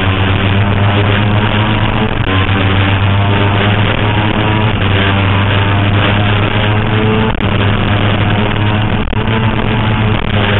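Suzuki GSX-R750 inline-four engine running at steady high revs on track, with two brief dips in the sound later on.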